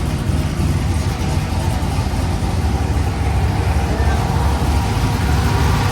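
Chevrolet Trailblazer SS's cammed, Hellcat-supercharged LS V8 idling steadily on its first start-up after the build.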